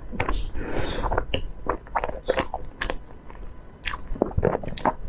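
Close-miked chewing of a soft cream-filled cake, with irregular mouth clicks and smacks.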